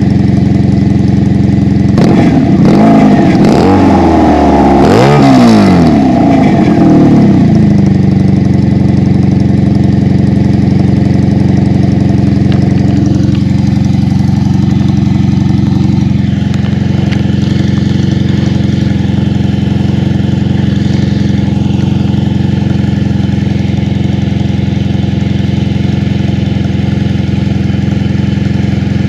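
Honda Magna V45's 750 cc V4 engine running at idle, revved up and down several times with throttle blips a couple of seconds in, then settling back to a steady idle.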